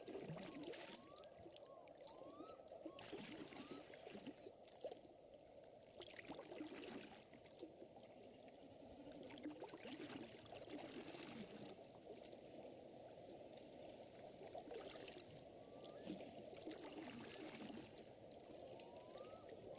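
Faint lakeside ambience of water gently lapping and trickling, with soft irregular splashes. Short rising chirps come in little runs near the start, in the middle and near the end.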